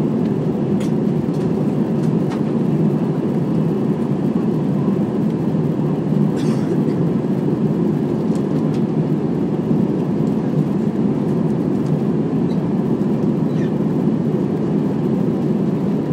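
Steady engine and airflow noise of an Airbus A320 in flight, heard inside the passenger cabin, with a few faint clicks.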